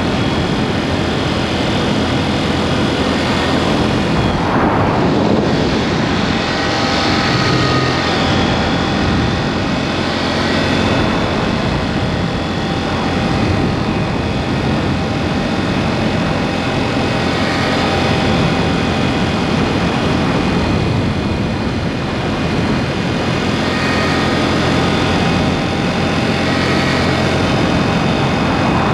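KTM 790 Duke's parallel-twin engine, running under way through an aftermarket SpeedPro Cobra SPX exhaust. The engine note rises and falls several times as the throttle opens and closes on the curves.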